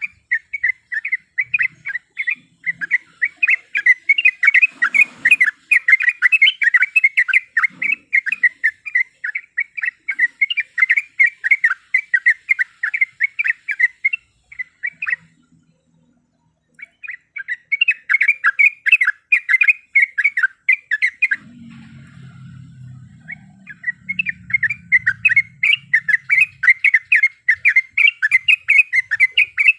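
Sooty-headed bulbul (trucuk) calling in a fast, rolling run of sharp repeated chattering notes, several a second. It breaks off briefly about halfway through, goes quieter for a couple of seconds, then picks up again.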